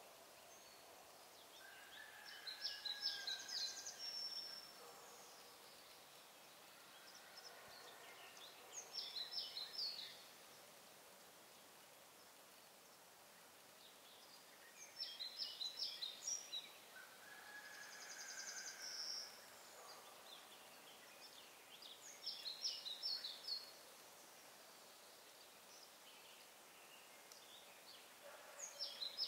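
A songbird singing, repeating a short phrase of quick high notes about every six seconds, with fainter lower bird calls between phrases over a low outdoor background hiss.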